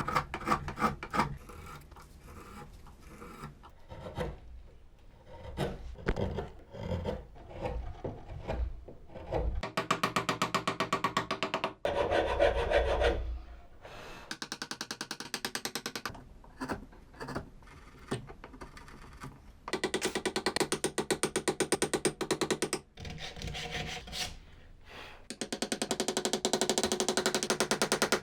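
Wood being filed and sanded: irregular rasping strokes at first, then several stretches of fast, even scraping with short pauses between them.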